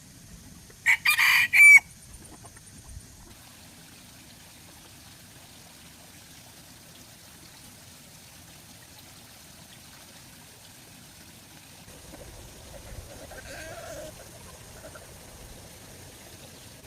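A loud, short bird call in three quick parts about a second in, followed by a faint, softer sound later on, over a steady low background.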